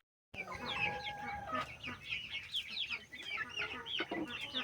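A pen of young chickens and turkey poults peeping: many short, falling chirps overlapping continuously.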